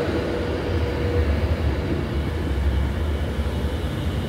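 Avanti West Coast passenger train pulling into the platform, its carriages rolling past close by with a steady low rumble and wheel and air noise. A faint whine fades out about a second in.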